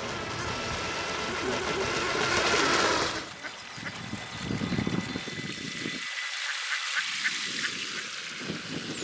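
Ducks quacking on the lake, after a loud rushing noise that builds over the first three seconds and stops suddenly.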